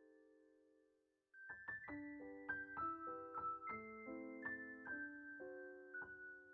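Solo piano music: a chord fades out, then after a short pause a gentle melody of single notes and chords starts up.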